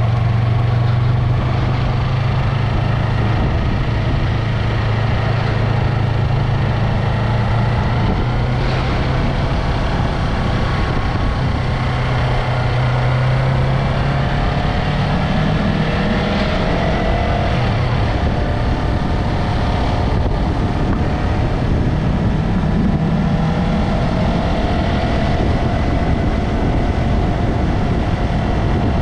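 Yamaha MT-03 motorcycle engine and exhaust running on the move, its pitch rising and falling with the throttle, over a steady rush of road and wind noise.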